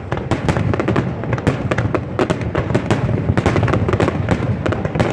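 Aerial firework shells bursting in a dense, irregular barrage of bangs and crackling, over a steady low rumble.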